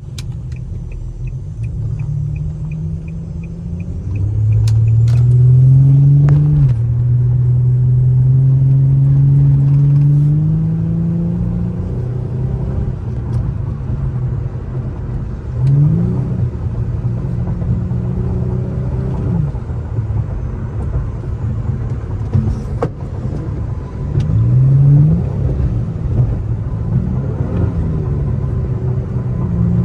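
Infiniti G35's VQ35HR V6 accelerating: the revs climb, drop at a shift about six seconds in, then pull up steadily for several seconds, with shorter climbs again later. A fast high ticking sounds over the first three seconds.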